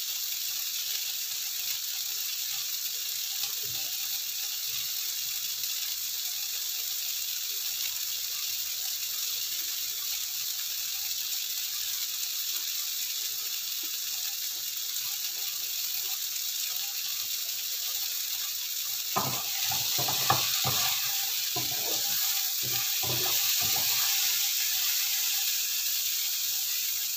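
Beef cubes and steamed eggplant sizzling in a nonstick wok, a steady hiss. About two-thirds of the way through, a wooden spatula starts stirring, with knocks and scrapes against the pan, and the sizzle gets louder.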